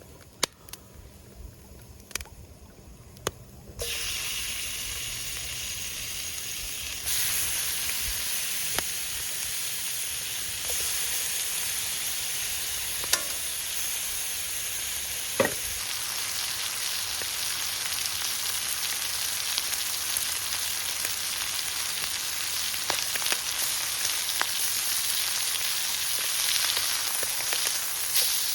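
Food sizzling in hot oil in a pan over a campfire, starting suddenly about four seconds in after a few sharp clicks, and getting louder twice.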